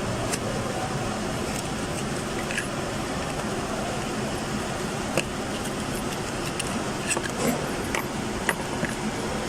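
Scattered light clicks and clinks of small metal parts being handled, over a steady background hum.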